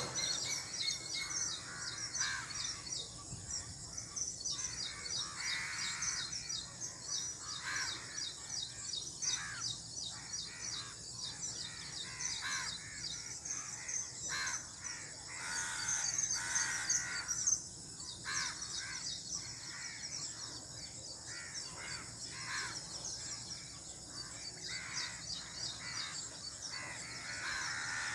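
Outdoor birdsong: a dense chorus of small birds chirping quickly and constantly, with crows cawing every few seconds over it.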